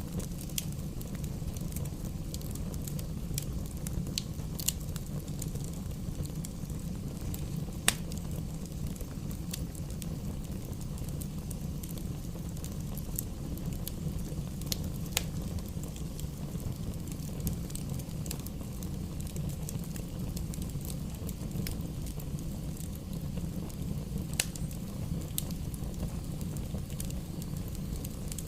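Wood fire burning in a fireplace: a steady low rumble of flames with scattered sharp crackles and pops of the burning logs, three or four of them louder than the rest.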